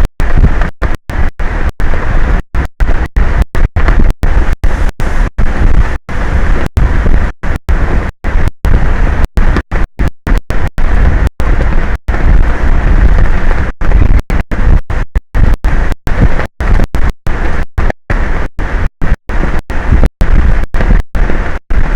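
Loud wind buffeting an outdoor camera microphone, a rough rumbling noise broken by frequent split-second dropouts.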